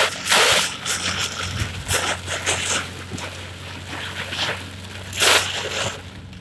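Heavy rain and gusting wind beating on a car, heard from inside the cabin, with irregular louder swells of spray about half a second, two seconds and five seconds in, over a steady low hum from the car.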